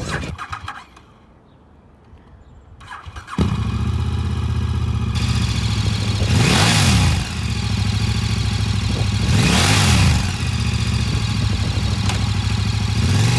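2015 KTM 1190 Adventure's V-twin engine, fitted with an aftermarket carbon fiber exhaust, starting about three seconds in and settling into a steady idle. The throttle is blipped twice, the revs rising and falling each time.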